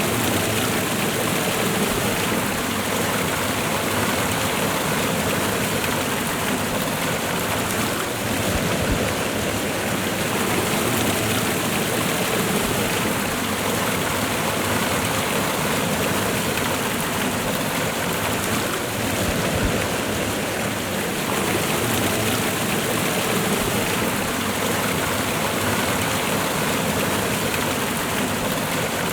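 Waterfall and river water rushing steadily, a dense even hiss and splash with no letup.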